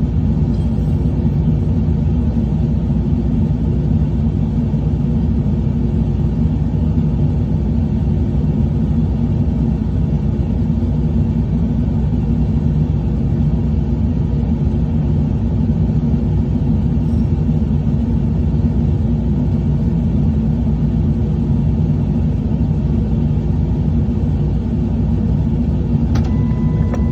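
Truck engine running with a steady low rumble. A short high beep sounds near the end.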